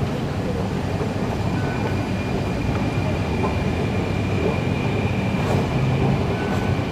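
Singapore MRT train running, a steady rumble with a faint high whine that rises slightly in pitch.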